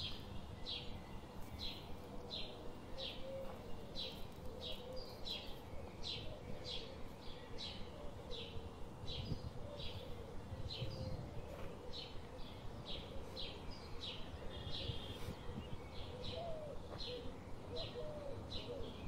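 A bird repeating a short high chirp over and over, about two a second, with a faint low rumble beneath.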